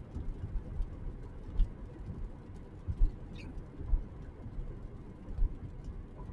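A few short, wavering bird chirps, about two seconds apart, over an irregular low rumble.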